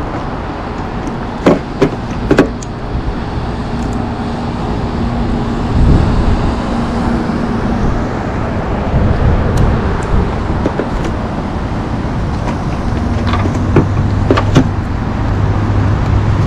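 Steady low rumble of a motor vehicle running, with a few sharp clicks near the start and again near the end as a plastic tail-light housing and its wiring are handled.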